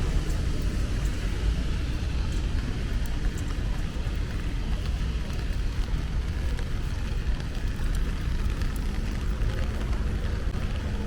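Rainy city street ambience: a steady low rumble of traffic under an even hiss of rain, with faint scattered ticks of drops.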